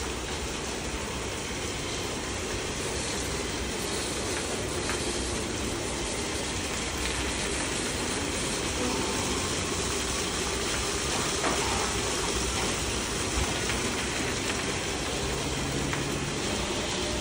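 Touchless automatic car wash machine running: high-pressure water jets spraying in a steady hiss over the machine's rumble, with a couple of faint knocks.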